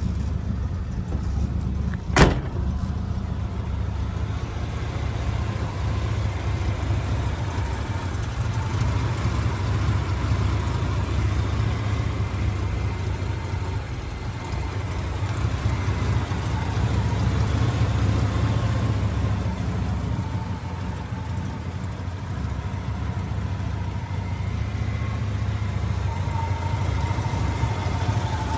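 A 1984 Buick Grand National's turbocharged 3.8-litre V6 idling with a steady low rumble. There is one sharp knock about two seconds in.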